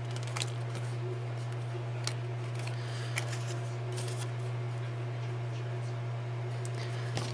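Scattered light clicks and rustles of paper and small craft tools being handled, over a steady low hum.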